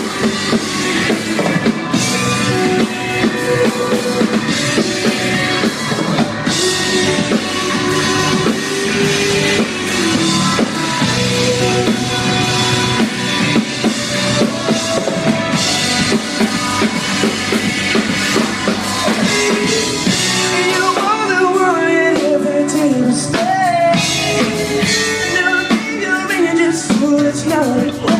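Live rock band playing loudly, led by a drum kit. In the last third a lead line wavers and slides up and down in pitch.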